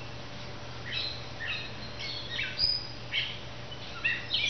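Songbirds chirping in short, quick, falling calls, several overlapping, starting about a second in and growing busier toward the end.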